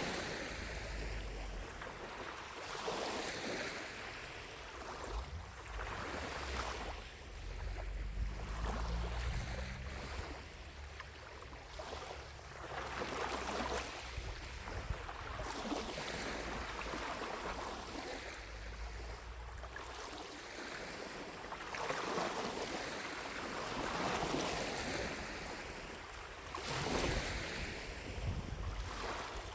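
Small lake waves lapping at the shore, each soft wash rising and falling every two to three seconds, over a low rumble of wind on the microphone.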